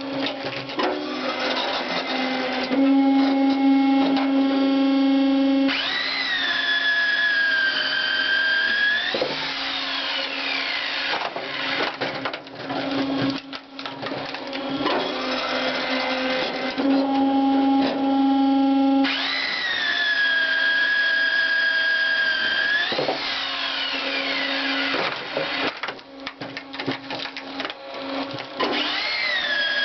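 A firewood processing machine's motor running with a steady hum and a high whine that jumps up, then drops and holds as it takes load, in a work cycle that repeats about every 12 to 13 seconds.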